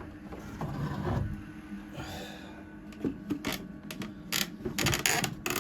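Plastic incubator lid being handled and fitted: a low bump about a second in, then a run of sharp clicks and rattles over the last few seconds, with a faint steady hum underneath.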